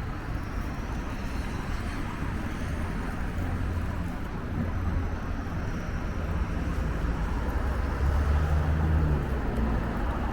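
Steady rumbling noise of a bicycle ride with road traffic close by, swelling louder for a moment about eight seconds in.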